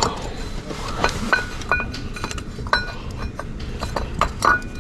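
Light metal clinks and taps from hand tools and bolts being handled, several of them ringing briefly with a short ping.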